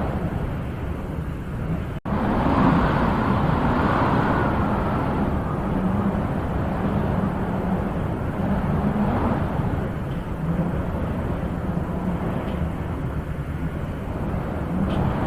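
Wind blowing in swelling and easing gusts, strongest a few seconds in, with a momentary dropout about two seconds in.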